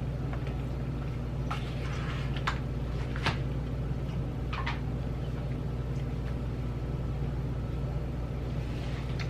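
A steady low hum, with a few short clicks and rustles in the first half.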